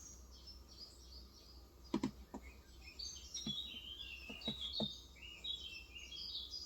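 Small birds chirping and twittering continuously, with a few scattered soft keystrokes on a Cox Endeavour 35 g electro-capacitive tenkeyless keyboard. The loudest is a quick double keystroke about two seconds in.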